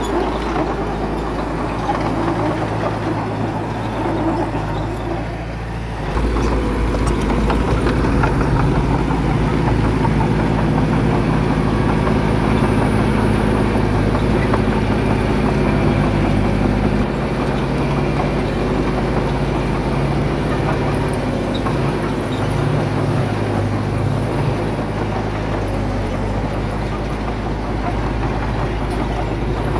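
Diesel engine of heavy earthmoving equipment running steadily. It grows louder about six seconds in and eases back a little around two-thirds of the way through.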